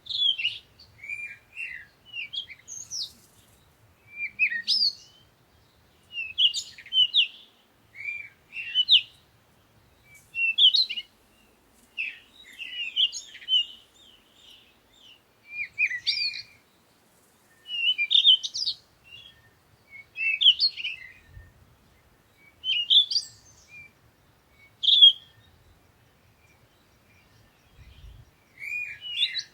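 Songbirds singing: short phrases of quick chirps and rising and falling whistled notes, repeated every second or two with brief pauses between, and a gap of a couple of seconds near the end.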